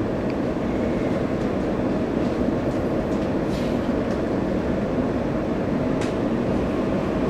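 Taiwan Railways EMU800 electric multiple unit running along the line, heard from inside the carriage: a steady rumble of wheels on rail, with a few faint clicks.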